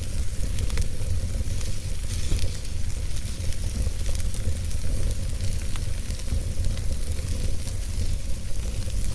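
Wood fire in a fireplace crackling, with scattered sharp pops and snaps over a steady low rumble and hiss.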